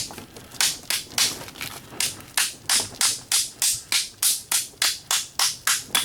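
Steady hammer blows on a punch, about three a second, driving old pins out of a can opener's metal body.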